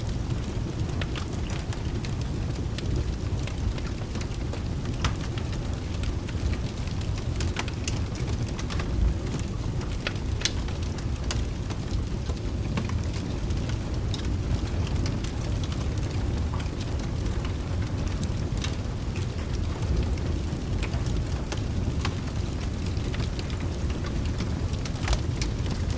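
Mixed ambience of steady rain over a deep, continuous rumble, with a wood fire crackling in scattered sharp pops throughout.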